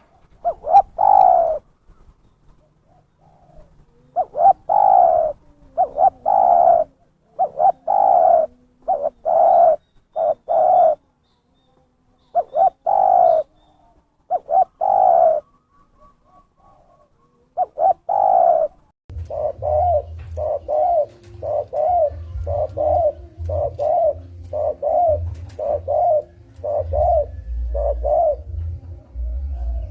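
Spotted dove cooing, used as a trapper's lure call: repeated falling coo notes with pauses between phrases. From about two-thirds of the way through, the coos come quicker, about one and a half a second, over a low rumble.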